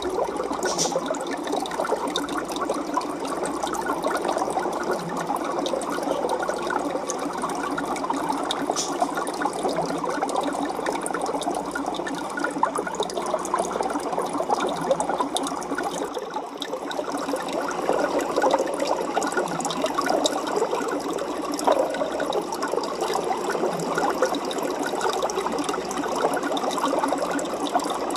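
Aquarium water bubbling and trickling steadily, with a fine crackle running through it.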